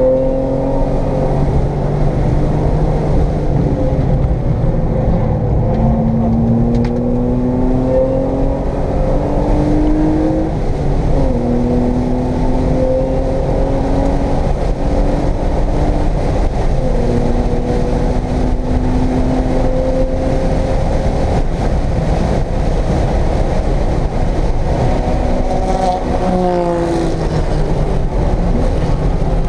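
1995 BMW M3's inline-six engine heard from inside the cabin under hard acceleration on track, climbing in pitch over several seconds and dropping back at each upshift, over a steady rush of road and wind noise. Near the end the pitch falls steeply and jumps back up, as under braking and downshifting.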